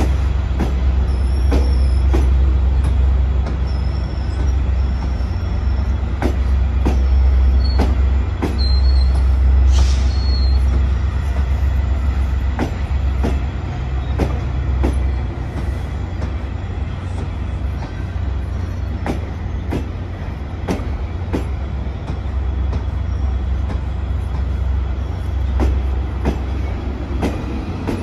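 Train rolling past on the rails: steel wheels clack over rail joints about once a second above a heavy steady rumble. In the first ten seconds there are several brief high squeals from the wheels.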